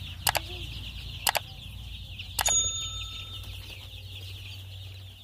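A flock of Kaveri chicks peeping continuously, many high chirps overlapping. Three sharp knocks come at about one-second intervals, the last with a brief metallic ring.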